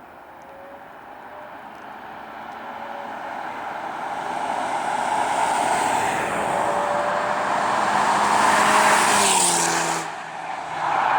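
Skoda Yeti with a K04 turbo upgrade and Magnaflow exhaust accelerating toward and past, its exhaust note growing steadily louder for about nine seconds, then its pitch falling as it goes by. The sound drops off abruptly about ten seconds in and swells briefly again near the end.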